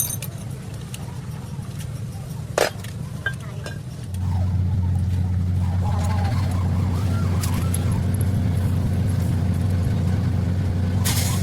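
An engine running steadily, its low hum stepping up louder about four seconds in, with a single sharp knock a little before that.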